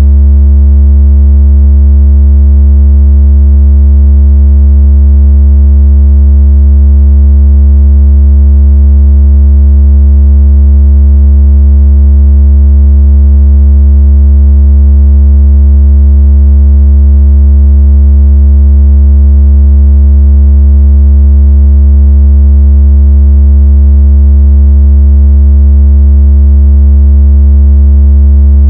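Loud, steady electronic bass tone that does not change, with fainter higher overtones stacked above it. It is a speaker-cleaning tone, played to vibrate a phone speaker and shake water out of it.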